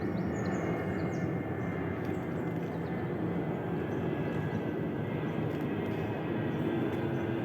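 Airliner flying overhead: a steady engine rumble with a faint high tone, holding at an even level.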